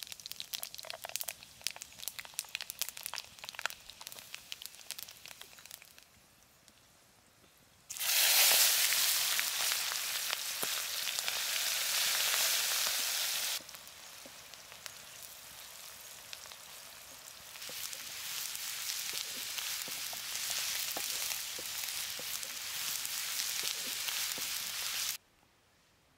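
Vegetables frying in hot oil. First a light crackle of popping, then after a short lull a loud, steady sizzle starts abruptly. It eases off, builds again, and stops abruptly near the end.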